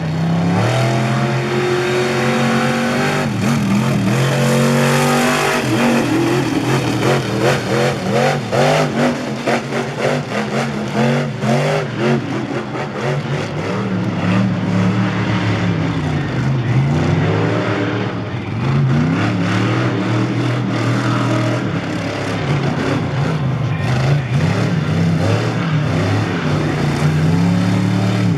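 Monster truck engine revving, its pitch sweeping up and falling back over and over, loud throughout.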